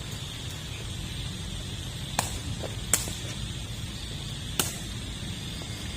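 A sepak takraw ball being kicked: three sharp smacks, about two, three and four and a half seconds in, over a steady background hum.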